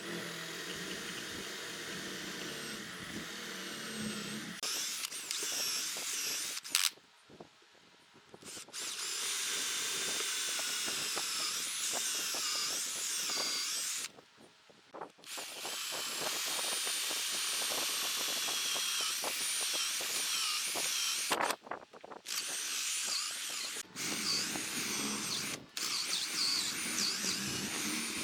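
Hand-held electric power tool working dried wood, run in several long bursts with short stops. Its whine wavers up and down as the load changes.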